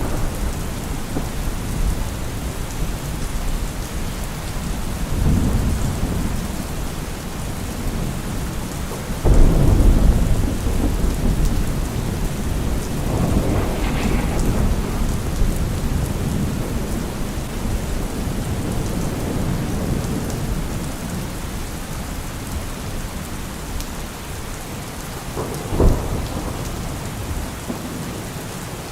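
Steady rain falling, with thunder rumbling through it: a loud rumble breaks in suddenly about nine seconds in, further rolls follow, and a sharp crack comes near the end.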